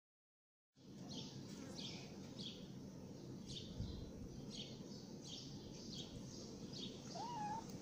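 Starting about a second in, a small bird chirps over and over, about one and a half chirps a second, faint over a steady background hiss. Near the end there is a short rising meow from a cat.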